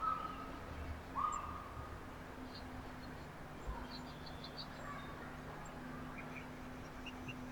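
Wild birds calling at a backyard feeder: two clear whistled notes near the start, the second about a second after the first, then scattered short high chirps.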